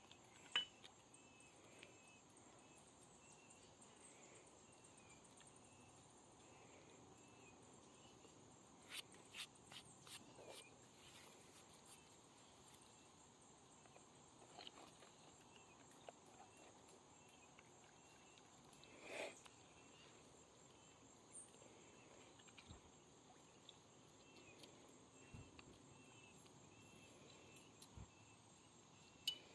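Near silence with outdoor ambience: a steady high insect drone and faint repeated chirps, broken by a few soft clicks and taps about a third of the way in and again near the middle.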